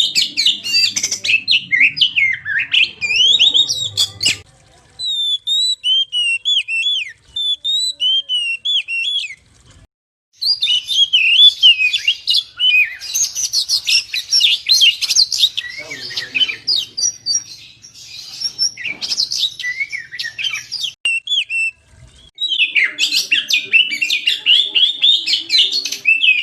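Oriental magpie-robin (kacer) singing loudly, with fast, varied strings of whistles, trills and chattering phrases. The song breaks off briefly about four, ten and twenty-two seconds in.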